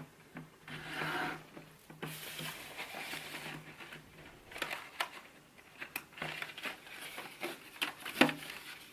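Soft rustling and handling noises with scattered clicks and taps, over an on-off low hum.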